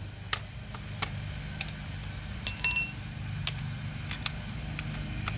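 Scattered light metallic clicks and knocks of hand tools working the gearbox drain plug, with one short ringing metal clink about two and a half seconds in, over a low steady hum.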